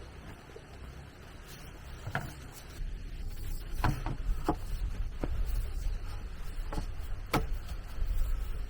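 A handful of sharp, irregular knocks or taps, several close together in the middle, over a steady low rumble.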